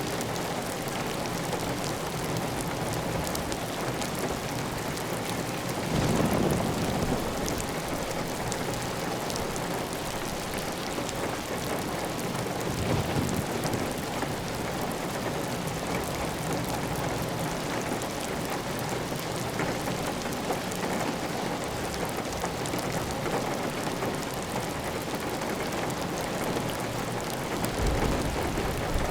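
Heavy, steady rain on a clay tile roof, with water running off the roof edge. A few brief, deeper swells stand out about six seconds in, near the middle and near the end.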